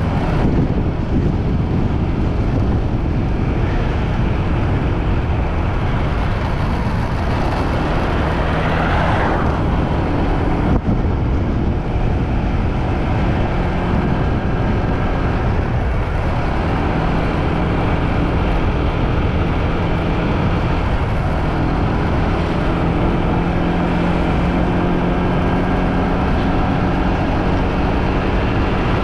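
Motorbike riding noise: wind rushing over the microphone with the bike's engine running steadily underneath, and a louder swell about eight to nine seconds in.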